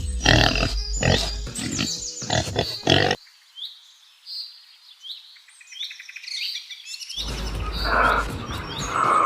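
A quick run of loud, short animal calls for about three seconds, then a few seconds of birds chirping, then more animal calls near the end.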